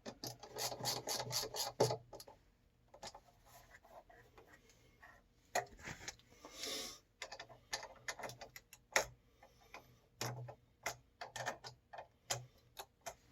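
Hands working on the water heater's parts: a quick run of small clicks, then scattered clicks and taps with a short scraping rub in the middle.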